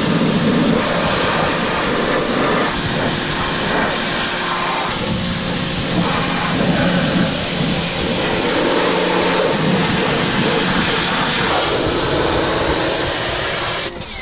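Pressure washer spraying down a car's engine bay to rinse off degreaser and grime: a steady, loud spray noise with a constant high whine running through it.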